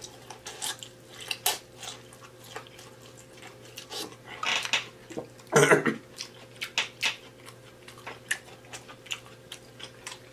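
Close-miked chewing of sauce-soaked food, with irregular wet lip smacks and mouth clicks. The loudest smack comes about halfway through.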